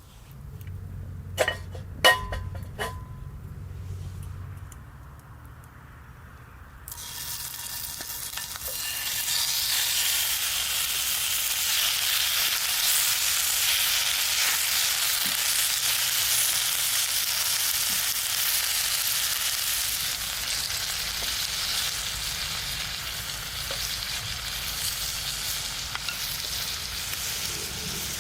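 A few sharp knocks, then food starting to sizzle in a hot pan about seven seconds in. The sizzle swells a couple of seconds later and stays steady, as beef fries over the fire.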